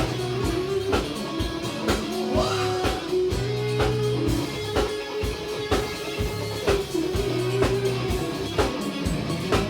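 Live funk band playing an instrumental stretch: drum kit on a steady beat under a repeating bass line, with guitar and a held melody line on top.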